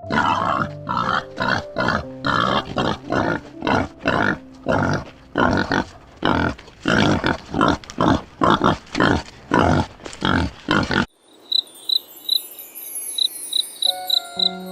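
An animal's rapid, rough calls, about two a second, which stop abruptly about eleven seconds in. Near the end come short, evenly spaced high insect chirps over music.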